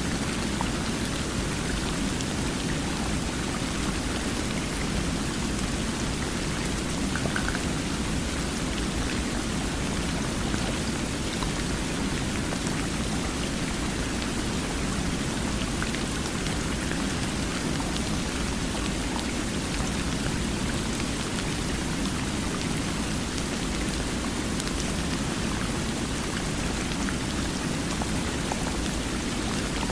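Steady, unbroken rushing of flowing water at an even level, with a few faint ticks of drops or splashes.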